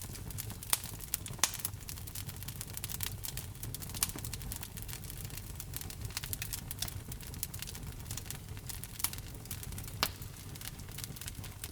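Wood fire crackling in a fireplace: frequent small snaps with a few louder pops, over a low steady rumble.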